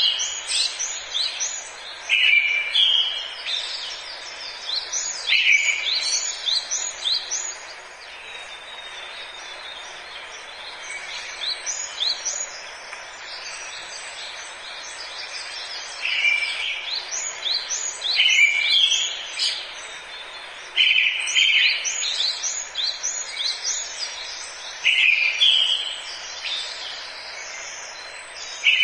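Forest birds singing: quick runs of high chirps come every couple of seconds, each starting on a lower held note. There is a quieter lull about a third of the way in. A steady hiss of forest ambience runs underneath.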